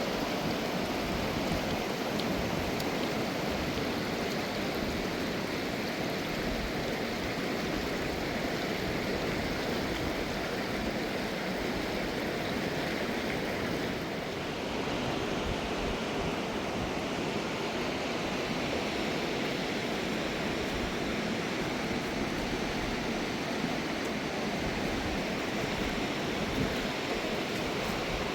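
Mountain river water rushing steadily, an even wash of noise that dips slightly for a moment about halfway through.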